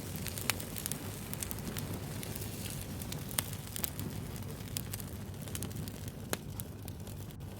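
Wood fire crackling: many small sharp pops and snaps, a few louder ones, over a steady low rumble of burning.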